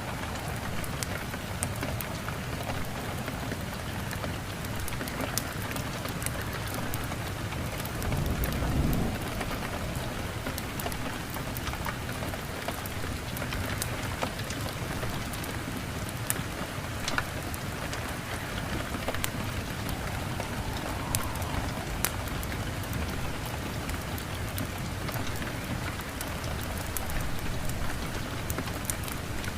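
Steady heavy rain, with a low rumble of thunder rolling in about eight seconds in and fading about two seconds later. Sharp crackles and ticks come scattered throughout.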